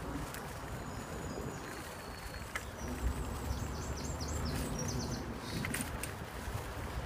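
Songbird singing: a couple of thin, high held whistles, then a quick run of short downward-slurred notes about halfway through. Under it is a steady low rumble of wind on the microphone while walking.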